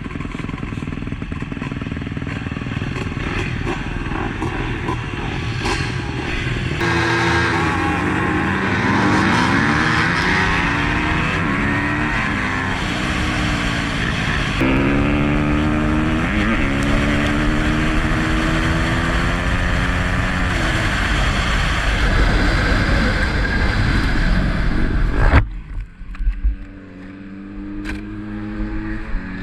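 Dirt bike engines running and revving, their pitch rising and falling, in a few stretches that change abruptly about a third of the way in, at the midpoint and near the end. The engine is quieter for the last few seconds.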